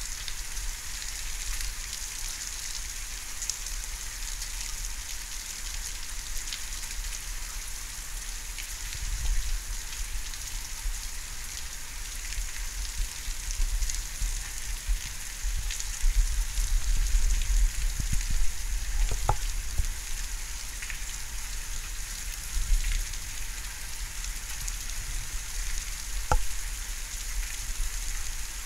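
Steady hiss of thunderstorm rain falling, with a low rumble that swells in the middle and two faint ticks later on.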